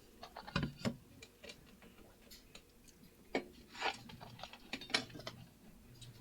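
Scattered light clicks, taps and brief rustles, irregularly spaced, from vinyl sheet and tools being handled on a work surface.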